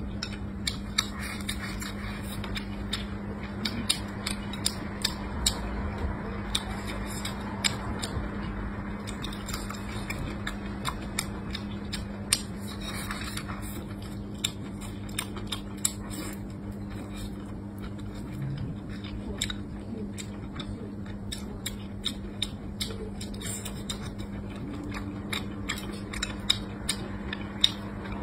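Close-up chewing of fatty cured pork and rice: a steady stream of small wet clicks and lip smacks, over a steady low hum.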